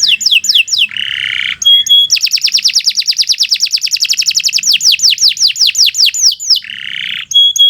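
Domestic canary singing a long, loud song. It opens with quick falling notes and a harsh buzzy phrase about a second in, then runs into a long rapid trill that slows into separate falling sweeps, with another buzzy phrase and a short clear whistle near the end.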